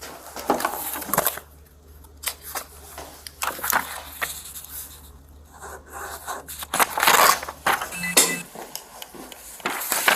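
Close-up scratching, rustling and knocking: handling noise of clothing and objects against a body-worn camera's microphone, with a short, louder run of rustles about seven seconds in.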